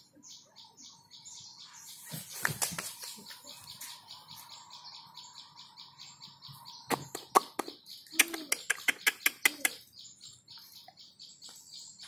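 Small birds chirping quickly and continuously. Loud, sharp clicks cut through them: a cluster about two seconds in, then a fast run of about ten clicks between seven and ten seconds in.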